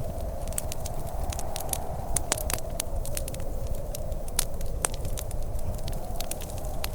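Wood fire crackling, with sharp irregular pops several times a second, over a steady low rush of background noise.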